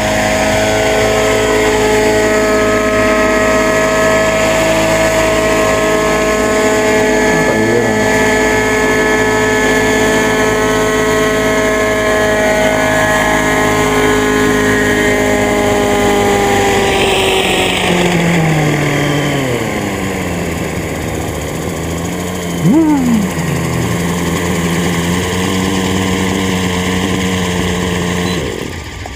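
AS90 engine, newly replaced along with its muffler and nearly run in, running steadily at high revs. About two-thirds of the way through the revs drop to a lower, steady idle, with one brief sharp sound and a short gliding squeak. The engine cuts off near the end. It runs smoothly, without the popping it made before.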